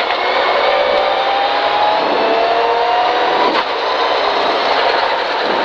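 Rally car engine heard from inside the cabin, pulling hard and rising in pitch in fourth gear. It shifts up to fifth about three and a half seconds in, then keeps accelerating, with tyre and road noise underneath.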